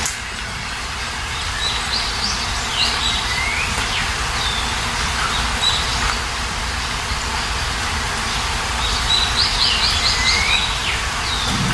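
Steady rain hiss with songbirds chirping over it: short swooping calls at intervals, and a quick run of repeated notes about ten seconds in.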